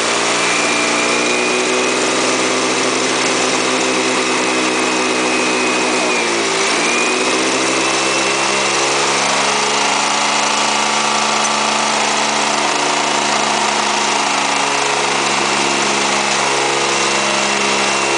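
Motorcycle engine held at high revs with the throttle open, easing off briefly about six seconds in and then pulled back up. The engine is being run hard on a freshly fitted spark plug to blow accumulated carbon out of the exhaust.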